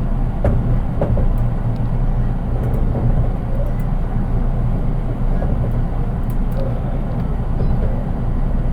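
Interior running sound of a JR East 183 series electric train, heard in its unpowered KuHa driving trailer car: a steady low rumble of wheels on rail with a constant hum and no motor whine, and a few faint clicks near the start.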